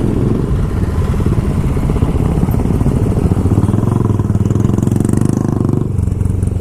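Motorcycle engine running under way, a steady, even pulsing exhaust note that eases briefly near the end.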